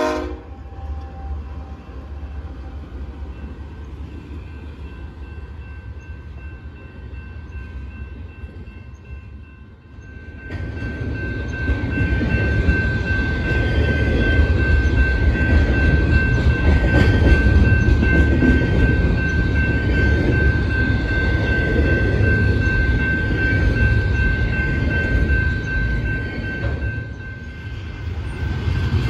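BNSF double-stack intermodal freight train rolling by: a quieter rumble for the first ten seconds or so, then a sudden jump to a loud, steady rumble of the container cars' wheels on the rails, with a thin steady high tone over it.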